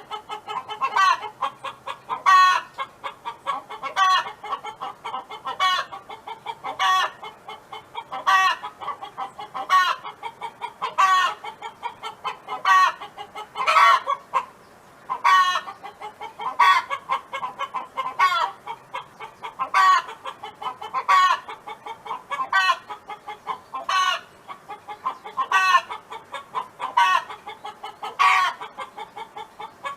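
Domestic hen clucking continuously in a steady repeating cackle: runs of short clucks, each run capped by a loud, drawn-out note about every second and a half.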